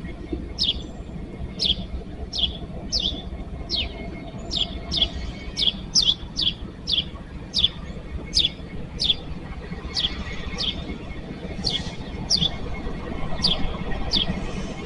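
A bird calling over and over, a short high chirp that falls in pitch, repeated one to two times a second. Underneath is a low steady rumble from the slowly approaching diesel-hauled coal train.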